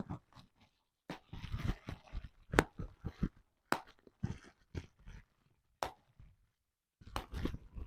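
Bubble wrap being handled and popped: sharp single pops every second or so among crinkling plastic, in bursts with short pauses.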